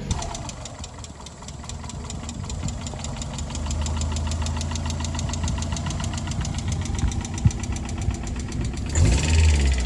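1993 Mazda Miata's 1.6-litre four-cylinder engine running with a rapid, even ticking or light knock, getting louder a few seconds in and revving briefly near the end. It doesn't sound great, and the owner suspects low oil.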